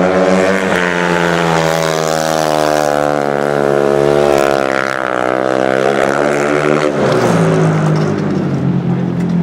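Single-cylinder speedway motorcycle engine running hard as the bike laps the dirt track, its pitch wavering, then dropping about seven seconds in as the throttle eases.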